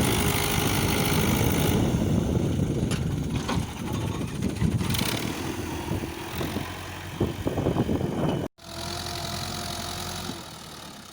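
Fiat 640 tractor's diesel engine running with a rough clatter. It cuts out abruptly about two-thirds of the way through, then comes back running steadily and more quietly.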